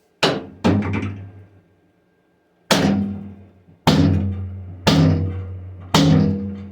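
Sledgehammer blows on the bent steel loader bucket of a 1958 Ford 851 tractor: six heavy strikes, each ringing out and dying away, a quick pair first, then roughly one a second. The torn, bent bucket is being beaten back into shape.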